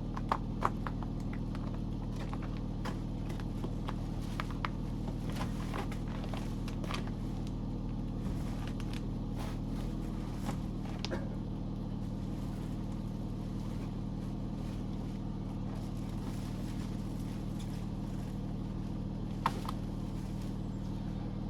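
Car engine running steadily at idle, with a few scattered clicks and knocks over it.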